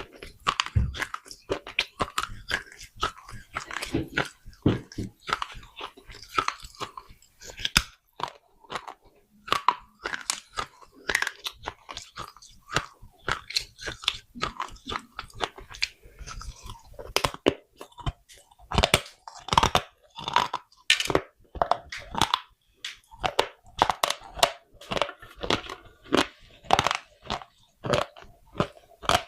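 Small clay pots being bitten and chewed: a rapid, irregular run of sharp, brittle crunches.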